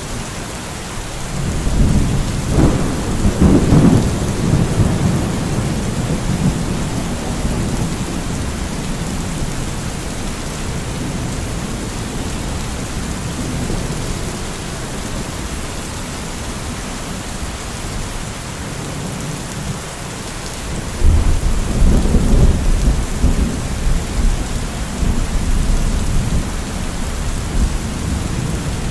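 Steady heavy rain with thunder rumbling low twice, once near the start and again past the middle.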